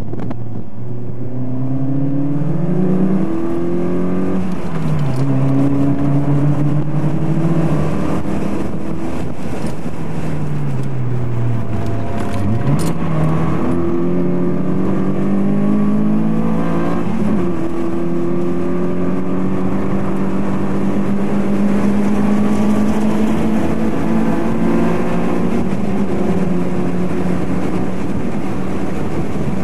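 Car engine heard from inside the cabin at track speed, revs climbing and stepping down through gear changes. About eight seconds in the pitch falls steadily for several seconds as the car slows, then climbs sharply again and settles into a long steady pull.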